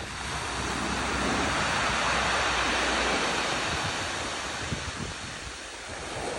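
Ocean surf: a wave breaks and washes in with a hiss that swells to a peak a couple of seconds in, then fades as it draws back, and the next wave starts building near the end.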